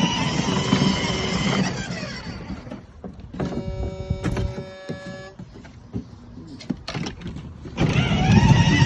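Electric drive motors of a battery-powered ride-on toy truck whining up to speed as the foot pedal is pressed, then easing off. A few seconds of steady electronic tones sound in the middle, and near the end the motors whine up again, louder.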